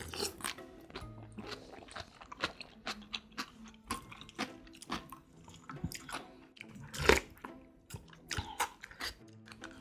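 Close-miked eating sounds: a person chewing acorn jelly in cold broth with crisp cucumber, many small wet crunches and mouth clicks, the loudest just after seven seconds in.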